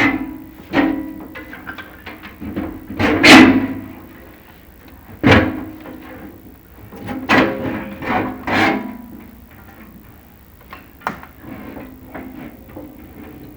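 Chimney inspection camera and its push rods scraping and knocking against the inside of a fireplace flue as they are worked down it. The strikes come irregularly, several of them with a short ringing resonance, and they thin out to lighter taps near the end.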